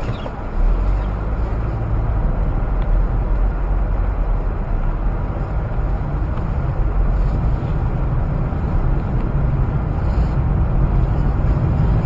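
Steady low rumble of road and engine noise from a moving vehicle, as picked up by a dashboard camera; the rumble rises about half a second in and then holds, with no distinct crash impact.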